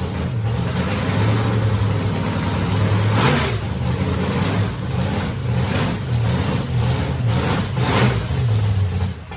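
Freshly built Malibu race car's engine running on its first start-up since the build, holding a steady idle with brief louder swells about three seconds in and again near the end.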